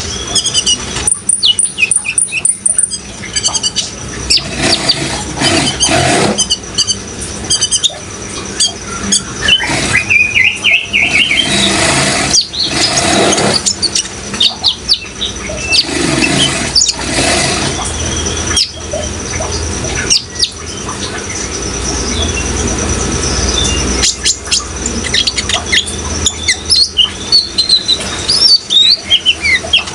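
Kolibri ninja sunbird singing, a fast run of high chirps and trills, over the steady rush of running water.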